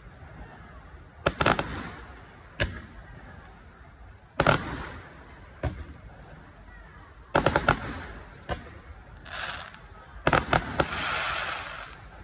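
Aerial fireworks shells bursting: about a dozen sharp bangs, some in quick clusters of two or three, with a longer noisy stretch near the end.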